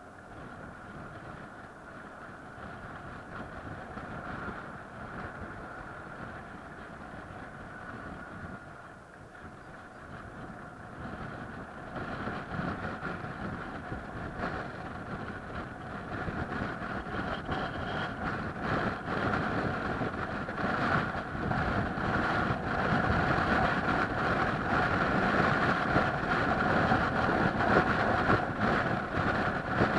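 A vehicle running steadily: a continuous drone with two held whining tones, getting louder about twelve seconds in.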